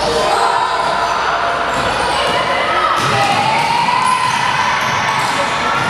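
A basketball being dribbled on a gym court over a steady din of crowd voices, with a drawn-out call about halfway through.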